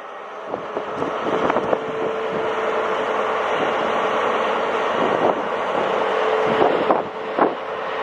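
A train moving through the station: a rising rush of running noise with a steady hum and scattered knocks from the wheels on the track.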